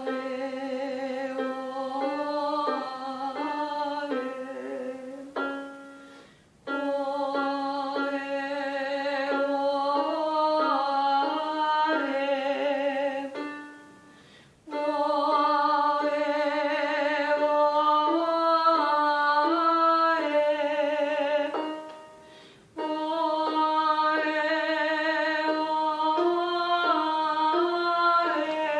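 A woman's voice singing a vocal warm-up exercise, a short melodic phrase sung four times with a brief pause between repeats.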